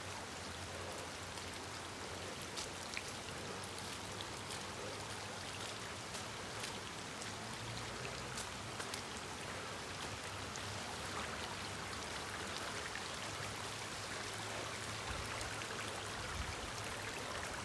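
Steady heavy rain falling, with storm runoff flowing along a drainage swale and scattered close raindrop ticks.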